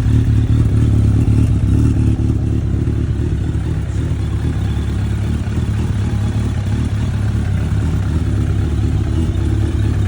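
2003 Suzuki GS1200SS's air/oil-cooled inline-four running steadily at idle on a cold start.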